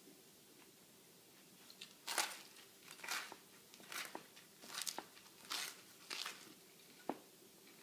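Crunchy chewing of a bite of grinder sandwich with crisp bread and lettuce: a run of short crunches about once a second starting about two seconds in, then a single sharp click near the end.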